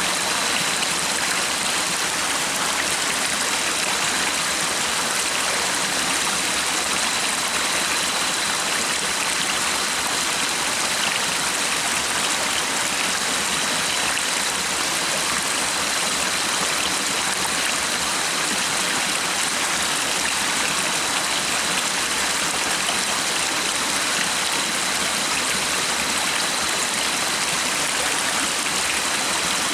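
Stream water flowing with a steady, even rush. A thin, faint high tone holds steady underneath.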